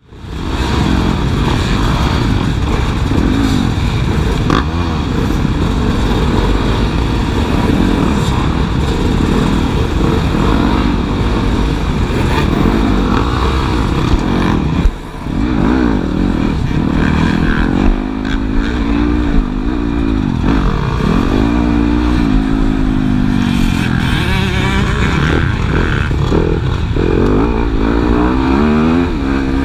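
Motocross bike engines racing, revving up and falling back over and over as the riders work the throttle and shift. There is a brief drop in level about fifteen seconds in.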